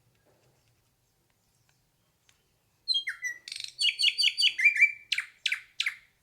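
Hair-crested drongo singing: after a quiet start, a rapid run of varied whistled notes begins about three seconds in and ends in a few sharp downward-swept calls.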